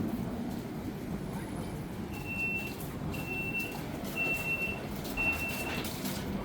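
Electronic warning beeper sounding four short, evenly spaced beeps of one high pitch, about one a second, over a steady low vehicle rumble.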